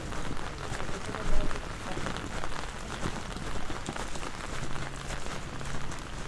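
Heavy rain falling, drops striking the large umbrella overhead and the ground in a dense, steady hiss, with one brief louder knock about a second in.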